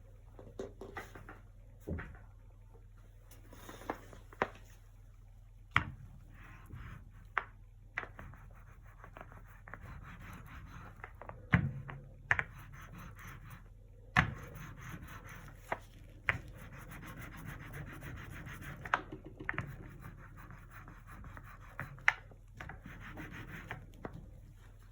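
Acrylic painting tools scratching and rubbing across the painting surface, with about a dozen sharp taps and knocks at uneven intervals. The rubbing grows steadier after about ten seconds.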